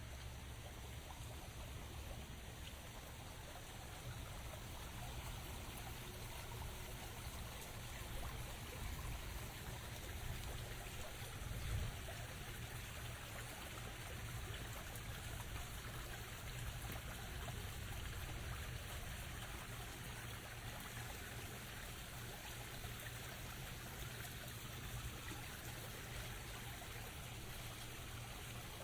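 Steady rain falling, with water trickling and running.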